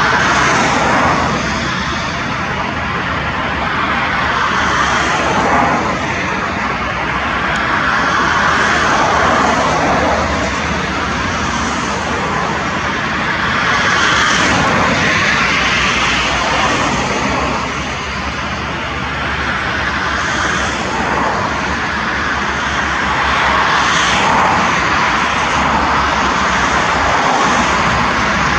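Airbus A320 airliner's jet engines: a steady, loud rushing noise that swells and eases a little several times.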